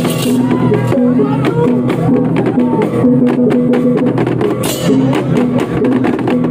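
Balinese gamelan playing: sustained ringing gong and metallophone tones under dense, fast strokes of cymbals and drums.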